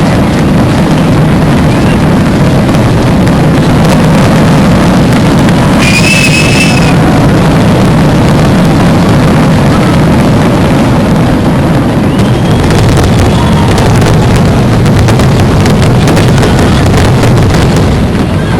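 Fireworks finale: a dense, continuous barrage of rumbling bursts and crackles, loud enough to overload the microphone. A high whistle sounds for about a second about six seconds in.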